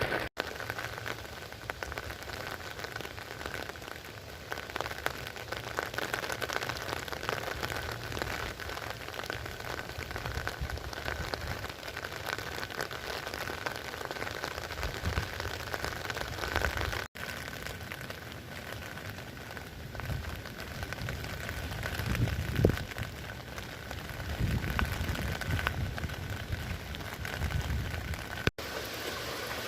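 Steady rain falling and pattering on surfaces, an even hiss. It drops out briefly three times, and low rumbles swell in during the second half.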